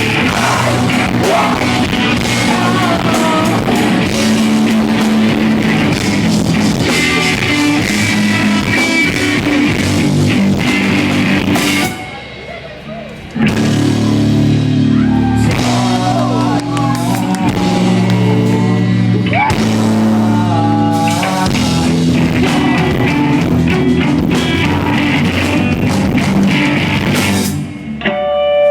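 Live rock band playing, with electric guitar, drum kit and singing. The sound drops out briefly about twelve seconds in and again near the end before the band comes back in.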